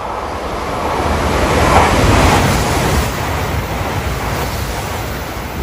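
Train passing through a station at speed: a loud rush of air and running noise that swells about two seconds in and slowly fades.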